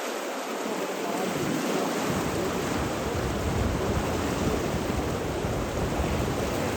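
Water rushing in a steady, even wash, with a deeper low rumble coming in about two seconds in.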